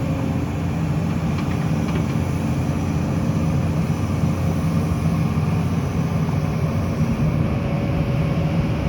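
Heavy construction machine's diesel engine running steadily under load, a constant low drone with no change in pitch.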